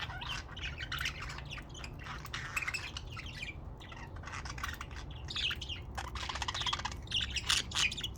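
Budgerigars chirping and chattering, a run of short, quick calls and warbles with no pause, over a steady low hum.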